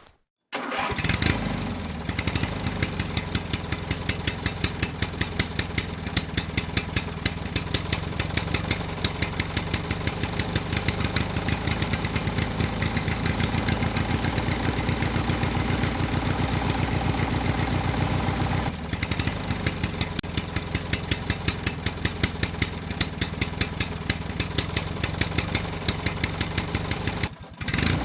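Small engine starting and running with a fast, even firing beat. It dips briefly about two-thirds of the way through and drops off near the end.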